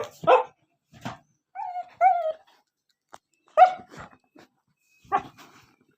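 Dog whining and yelping in a string of short, high calls with pauses between them.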